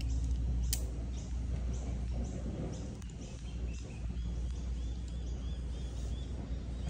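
Outdoor background of birds calling: a high chirp repeated about twice a second, with a run of short arched calls in the middle, over a steady low rumble. A single sharp click about three-quarters of a second in.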